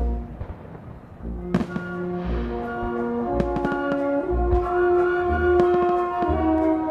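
Fireworks going off over brass-led orchestral music: held horn and brass notes with bangs and crackles of shell bursts scattered through, a loud bang about a second and a half in.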